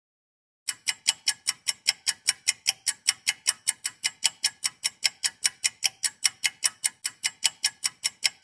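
Clock ticking sound effect: a fast, even run of sharp ticks, about five a second. It starts a little under a second in and goes on steadily for about eight seconds.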